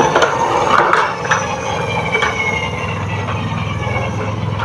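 Toy model garbage truck rolling down a toy slide: a steady rolling rattle of small wheels, with a few clicks in the first second and a thin whine that slowly falls in pitch.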